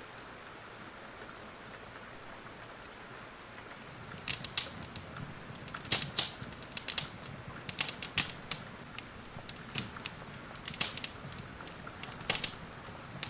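Wood fire in a fireplace crackling, with sharp irregular pops and snaps, over a steady hiss of rain. The first few seconds are mostly the steady hiss; then the pops come thick and uneven.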